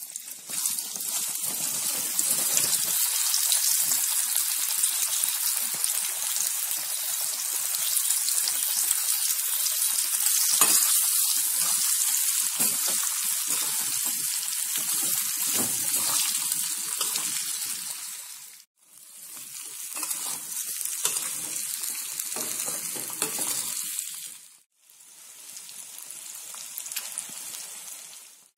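Potato slices sizzling in hot groundnut oil in a metal kadai: a steady, loud frying hiss with scrapes and knocks of a spoon stirring them. It breaks off sharply twice in the second half and comes back quieter each time.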